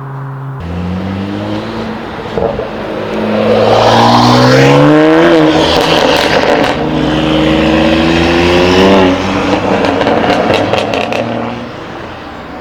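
Tuned car accelerating hard away, its engine note climbing, dropping once at a gear change about five seconds in, then climbing again. About nine seconds in the driver lifts off, and a quick run of exhaust crackles follows.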